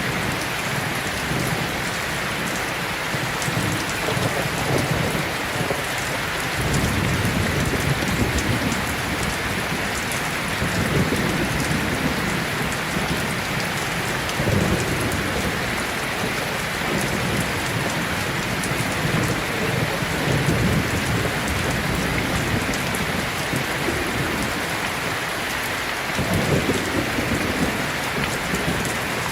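Heavy rain pouring steadily, with low rolls of thunder swelling up and fading several times.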